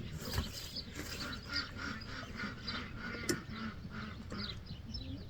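A bird calling over and over in short calls, about two or three a second, with one sharp knock about three seconds in.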